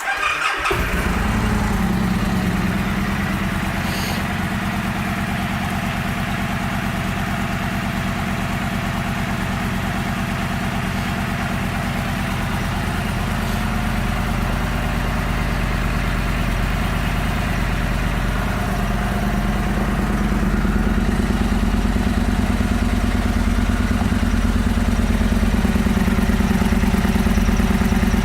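A 2014 Victory Vegas 8-Ball's V-twin engine starting and settling into a steady idle. The idle rises slightly about twenty seconds in and holds there.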